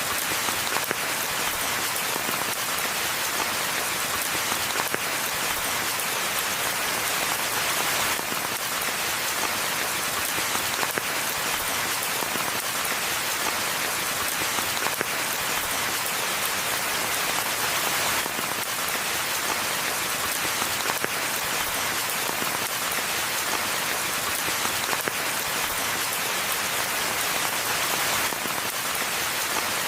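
Steady, even rainfall: a dense hiss of many drops, strongest in the high range.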